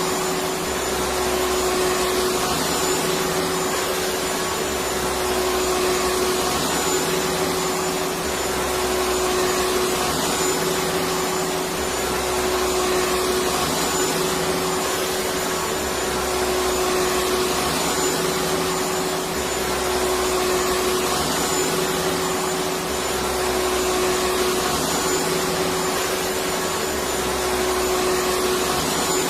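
Vacuum cleaner running steadily: a constant motor hum under an even rushing hiss, with a faint low swell repeating every couple of seconds.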